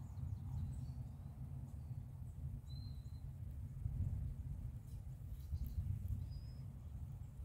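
Steady low outdoor rumble on the microphone with a small bird chirping briefly twice, once about three seconds in and again near the end.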